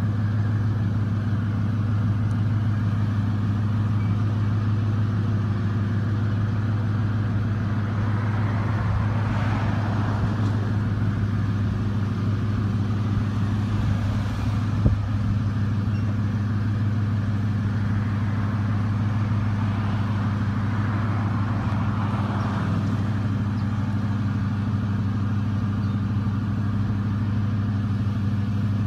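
High-mileage 1999 Ford F-150 engine idling steadily, with a single sharp click about halfway through.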